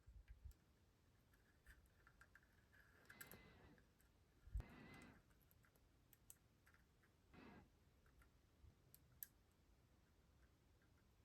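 Faint, scattered small clicks and a few brief rustles from small model parts and tools being handled at the workbench.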